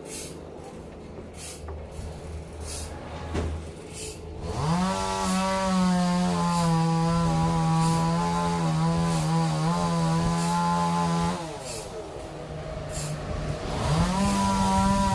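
Sawmill saw running and cutting timber. A low machine hum, then about four seconds in a pitched whine rises and holds steady for about seven seconds before falling away; near the end it rises again for a second cut.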